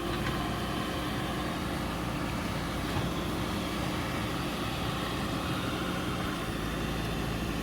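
An engine running steadily at an even idle, a constant low drone with no change in speed.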